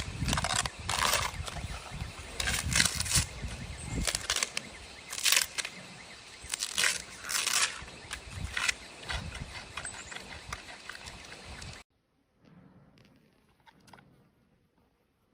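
A giant panda biting and chewing bamboo: irregular cracking, rattling crunches, a few a second. About twelve seconds in the sound cuts off suddenly, leaving only a few faint crunches.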